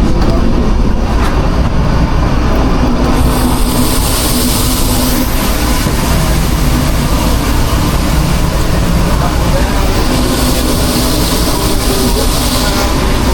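Steady loud rumble of a food truck kitchen's running machinery, with a hiss that comes in about three seconds in and again near the end.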